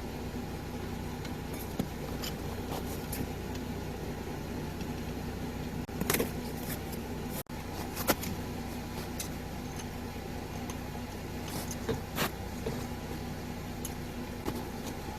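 Jeep Gladiator's engine idling with a steady hum, with a few short sharp clicks and knocks scattered over it.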